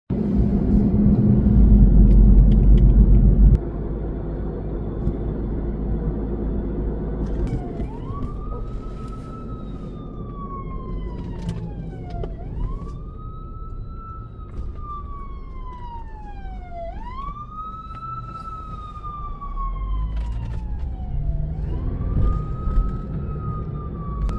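Loud low vehicle rumble for the first few seconds. Then a responding fire apparatus's siren wails over engine noise, each cycle rising quickly and then falling slowly, repeating about every four and a half seconds.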